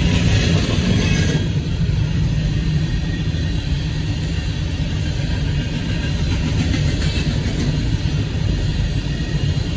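Union Pacific grain train's covered hopper cars rolling steadily across a road crossing, a continuous rumble of wheels on rail heard from inside a car's cabin.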